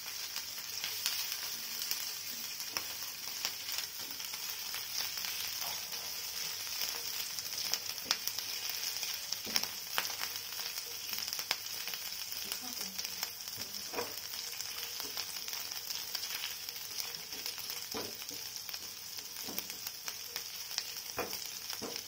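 Chopped ginger and garlic sizzling steadily in hot oil in a non-stick frying pan, stirred with a spatula, with a few faint clicks over the hiss.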